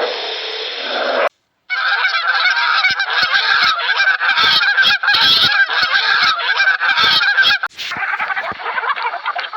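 After a brief silence about a second in, a loud, dense chorus of many birds calling over one another, with a switch to different bird calls near the end.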